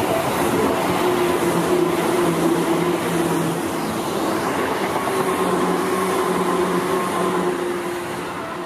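Seibu 4000 series electric train passing close by on the rails: continuous wheel-and-rail noise with a steady hum, and a fainter higher whine that sinks slowly in pitch in the second half.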